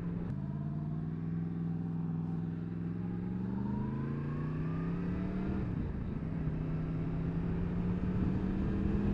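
Yamaha MT-10 SP's crossplane inline-four engine pulling away on the road, its pitch climbing for a couple of seconds, dropping sharply at a gear change a little past halfway, then running steady.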